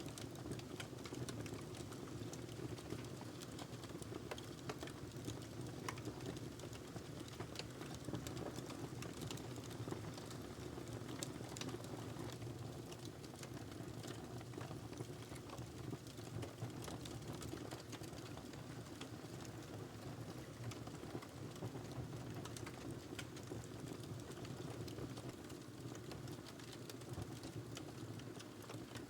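Fireplace fire crackling: a steady low rush of flame with frequent small, irregular pops and snaps.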